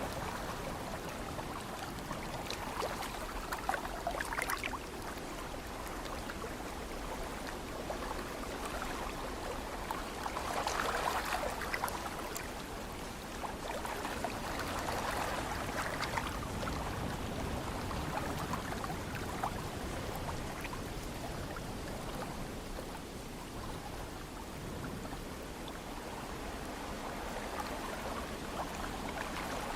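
Ocean waves washing in: a steady wash of water with several slow swells of surf, the strongest near the middle.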